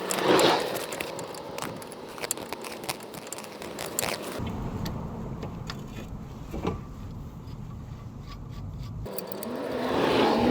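Metal clinks, taps and scrapes of tools and car parts being handled. Near the end a louder sound with a low steady hum swells up.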